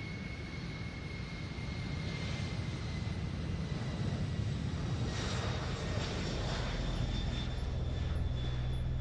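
Large aircraft's engines running: a low rumble with a steady high whine over it, slowly growing louder.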